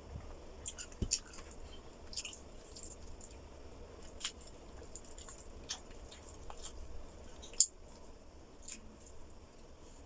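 Close-up mouth sounds of a person chewing food: scattered wet clicks and smacks, with one sharper click about three-quarters of the way through.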